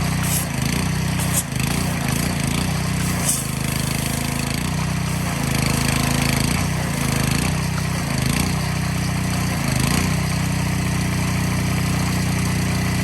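Small petrol engine of a pressure washer running steadily, its note dipping briefly several times.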